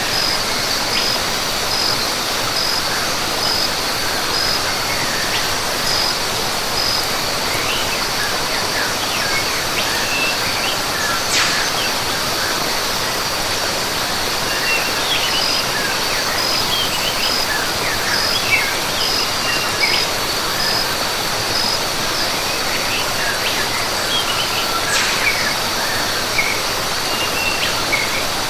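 Rainforest ambience: a steady rush of falling water under a constant high insect drone, with an insect call pulsing about twice a second at times and many short bird chirps scattered throughout.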